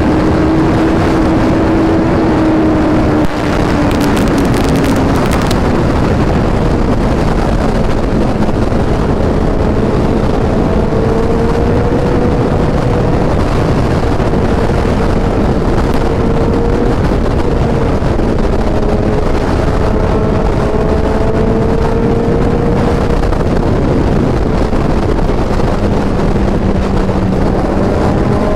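Suzuki Hayabusa's inline-four engine running at cruising speed, heard from the rider's seat under heavy wind rush on the microphone. The engine pitch sinks a few seconds in as the throttle eases, then climbs slowly again with small dips and rises.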